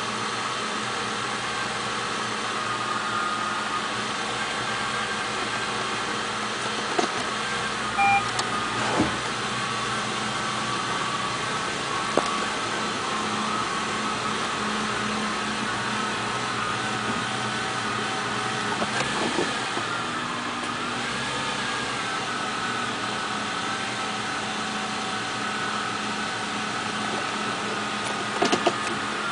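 Audi A8 engine idling roughly on a cold start, a steady running hum, with a few brief clicks.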